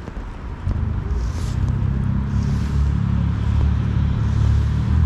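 A nearby engine running with a low, steady hum that comes in under a second in and grows louder toward the end, as if approaching.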